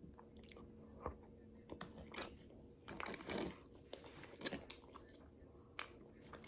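A person chewing food close to the microphone, with soft, irregular mouth clicks.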